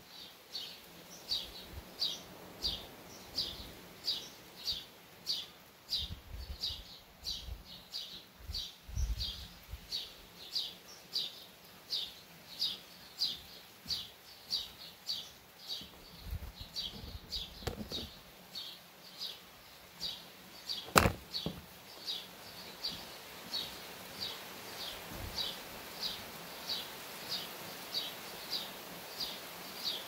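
A bird repeating a short, high, downward chirp about one and a half times a second, with low rumbles of distant thunder a few seconds in and again around two thirds of the way through. One sharp click stands out about two thirds of the way through, the loudest sound.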